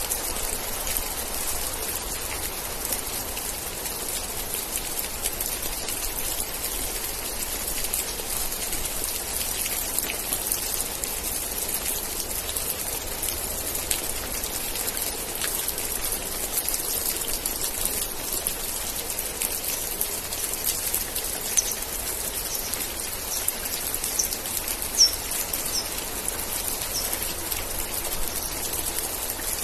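Steady rain falling, an even hiss of many drops. Near the end, a run of about seven short, high chirps sounds over the rain.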